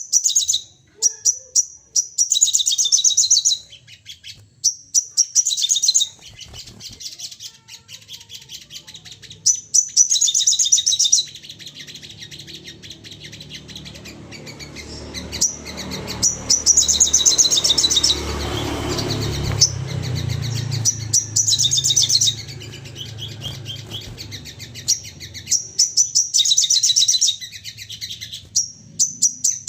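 Spiderhunter (sogon) calling in rapid-fire volleys of sharp, high chirps, each burst a second or two long and repeated throughout. A low rumble swells in the background around the middle.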